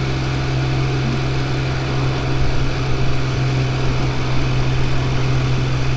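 Triumph Speed Triple 1200 RR's three-cylinder engine running at a steady speed, a constant low hum that holds one pitch.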